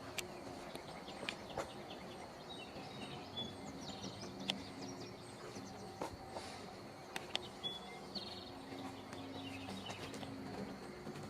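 Songbirds singing, a short trilling phrase repeated every two to three seconds, with a few sharp clicks in between.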